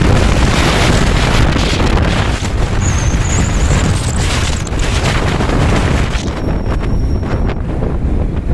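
Wind rushing and buffeting against the microphone on a moving motorbike, a loud, steady low rumble of wind and road noise. The hiss softens a little about three-quarters of the way through.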